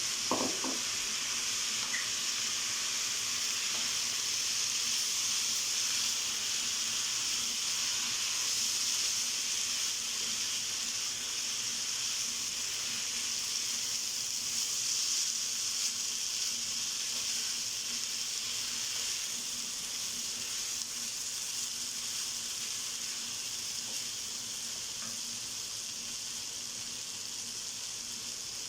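Minced meat and rice frying in a pan, sizzling steadily, with tomatoes just added; a short knock right at the start.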